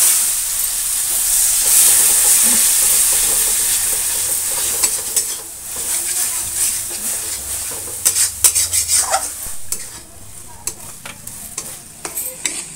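Chopped tomatoes dropped into hot ghee and spice masala in a metal kadai: a loud sizzle that starts at once and slowly dies down. A steel spatula stirs, scraping and tapping the pan, with the clicks coming more often in the last few seconds.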